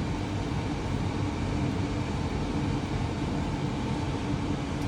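Fan in a Goodman 80% gas furnace running, a steady hum with a low drone, as the furnace starts its sequence of operation on a call for heat.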